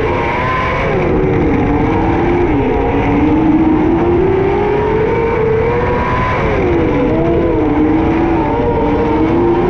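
600cc micro sprint car's motorcycle engine at racing speed, lifting off sharply twice and then climbing back up through the revs: the throttle coming off into a corner and back on down the straight, lap after lap.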